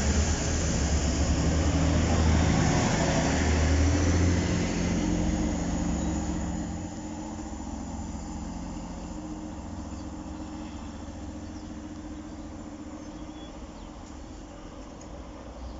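Diesel multiple-unit train passing over the level crossing: loud engine and wheel noise that fades away over the first several seconds, leaving a quieter steady engine drone as it moves off.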